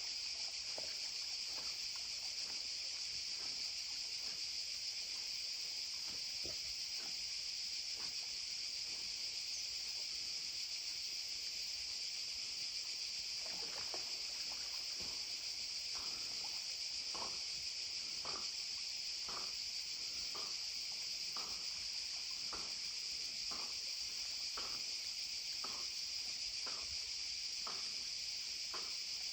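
Steady high-pitched chorus of insects. From about halfway through it is joined by soft, regular water strokes about twice a second, a dog paddling as it swims.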